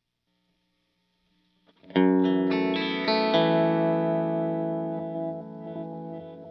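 Slightly overdriven electric guitar (Fender Stratocaster into a Vox AC30) run through a delay and reverb pedal: after near silence, a chord is struck about two seconds in, with a few more notes within the next second, then rings out and slowly fades in a wash of echoes and reverb.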